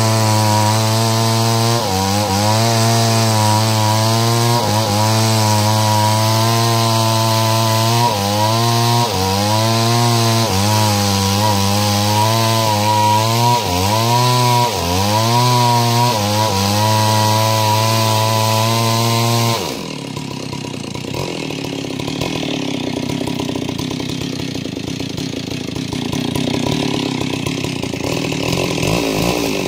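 Stihl two-stroke chainsaw running at high speed while ripping a log lengthwise into planks, its pitch repeatedly sagging and recovering as the chain bites into the wood. About twenty seconds in, the sound abruptly turns quieter and rougher, losing its clear engine pitch, then builds up again near the end.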